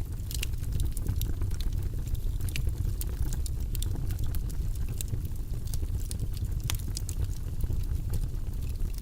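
Fire burning in a fireplace: a steady low rumble of flame with frequent, irregular sharp crackles and pops.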